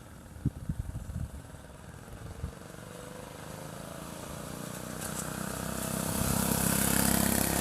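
Small engine of a minibike or go-kart running at full throttle on a drag run, growing steadily louder as it comes closer, after a few sharp knocks in the first second or so. The engine is fitted with its muffler and burning octane-boosted race gas.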